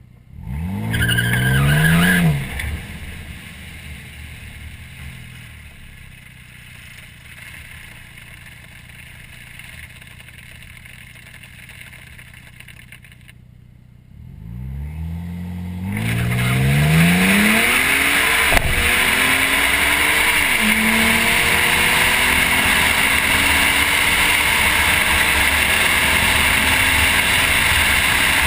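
2011 Ford Flex EcoBoost's twin-turbo 3.5-litre V6, heard from under the car by the exhaust pipe: a short rev about a second in, then a steady idle. About halfway through comes a full-throttle launch, the engine pitch climbing and dropping back twice as it shifts up, with loud road and tyre noise building as the car gathers speed.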